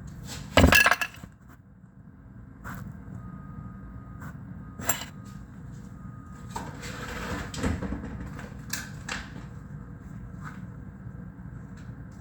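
Harsh noise from a mixer feedback rig with reel-to-reel and reverb: a low hum underneath, a loud crackling burst about half a second in, then scattered clicks and crackles, a thin steady whistle-like tone for a few seconds, and a swell of hiss around the middle.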